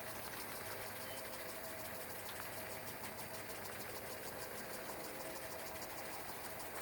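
An unidentified steady machine-like hum with a thin held tone above it, unchanging throughout.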